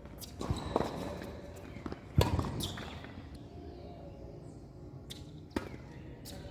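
Tennis ball being struck and bouncing on the court: a few sharp knocks, two close together under a second in, the loudest about two seconds in, and two more near the end.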